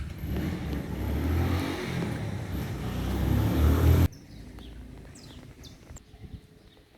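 Heavy rain pouring, with a loud rushing noise and a gusty low rumble, that cuts off abruptly about four seconds in. After that there is a quieter background with a few faint high chirps.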